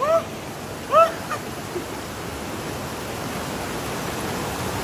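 Fast river water rushing steadily, growing slightly louder. Two short high cries are heard in the first second or so.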